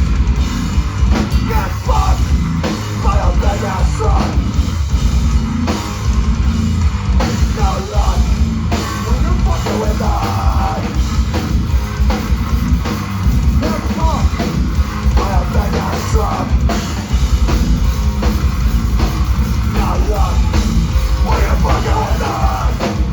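Live rock band playing, with drums and amplified instruments.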